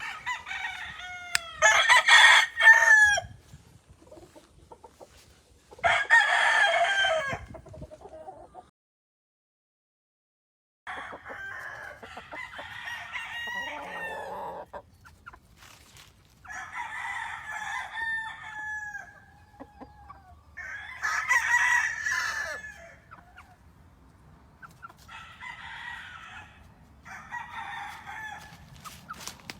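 Gamefowl roosters crowing one after another, several calls overlapping, with clucking between them. The crows are loudest in the first few seconds, and there is a sudden break of about two seconds of dead silence about a third of the way in.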